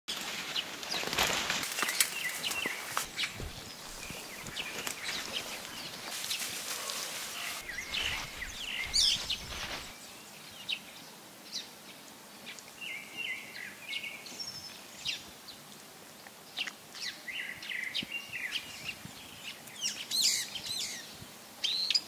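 Wild birds chirping in short, scattered calls, over a forest background. Irregular rustling and crackling runs through roughly the first half and then fades, leaving mostly the bird calls.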